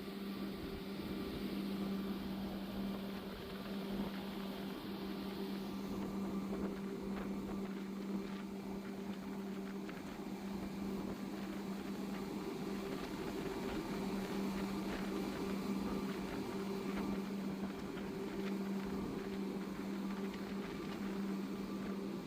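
500 HP boat engine running steadily under way on a sea trial: a constant drone with a steady hum and no change in speed.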